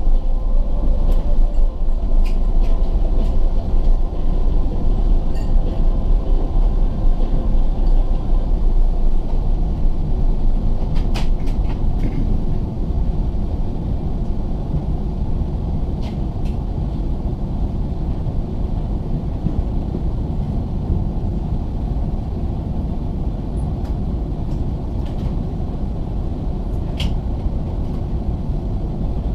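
Cabin noise aboard an Airbus A380 on the ground: a steady low rumble from the engines and the rolling airframe, with a few faint clicks in the cabin.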